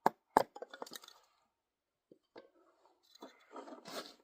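Kindling being chopped: two sharp chops into wood right at the start, followed by a few light clinks of split pieces, then softer rustling and handling noise about three seconds in.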